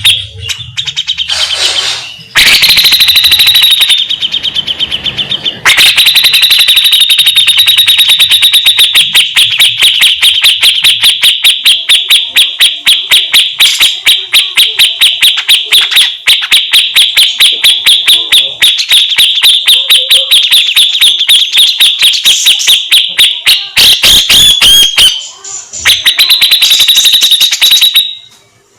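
Cucak jenggot (grey-cheeked bulbul) singing its harsh, rapid chattering 'besetan' song: long runs of fast, evenly repeated shrill notes at a nearly constant pitch, broken by short pauses about two seconds in, near six seconds, and around twenty-five seconds.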